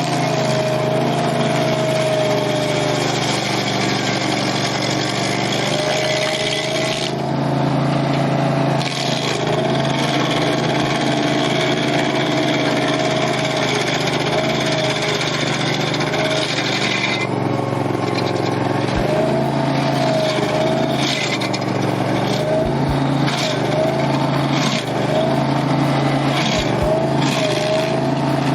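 Barreto 30SG stump grinder's gas engine running hard while its cutter wheel grinds into a tree stump, the engine pitch wavering as it takes the load. A heavy hiss of grinding runs through long stretches and drops away for a while about 7 and 17 seconds in.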